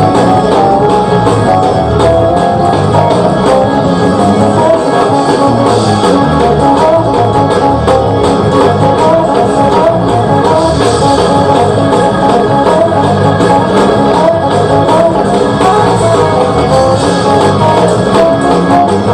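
Loud band music with guitar and drums.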